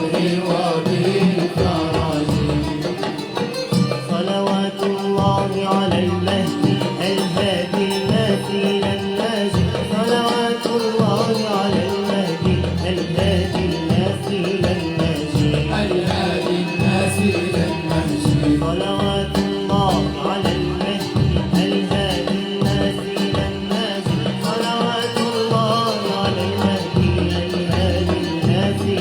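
Libyan malouf ensemble playing: a wavering melody over a steady, dense hand-drum beat.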